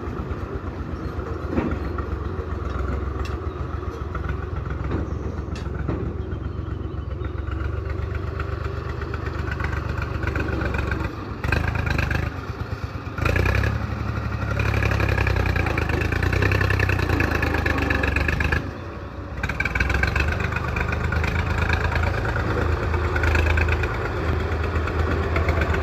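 Tractor diesel engine running, a steady low rumble that drops away briefly a few times.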